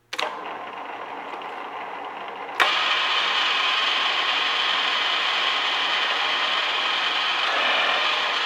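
Milling machine running with a steady mechanical whir made of many fine tones. About two and a half seconds in, a sharp click, after which it runs louder and brighter and stays steady.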